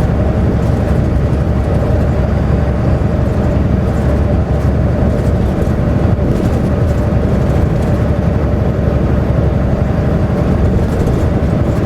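Steady engine drone and road rumble inside a moving semi-truck cab, with a faint constant tone over the low rumble.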